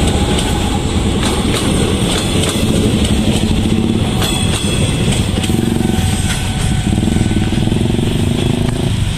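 A JR 205 series electric commuter train rolls past, its wheels clicking over the rails, until about halfway through. A crowd of motorcycle engines then pulls away across the level crossing.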